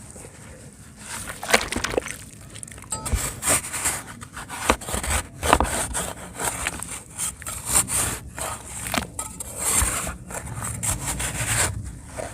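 Dry cement being crumbled: irregular gritty crackling and scraping, broken by frequent sharp snaps.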